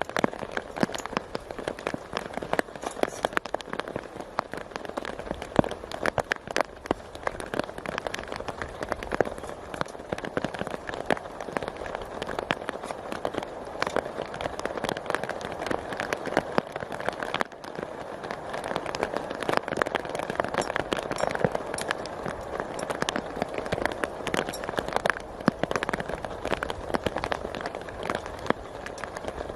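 Steady rain, with dense drops pattering on a tarp overhead.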